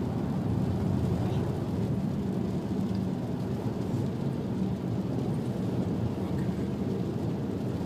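Steady low rumble of a car driving on a snow-covered highway, heard from inside the cabin: tyre and road noise with the engine beneath it.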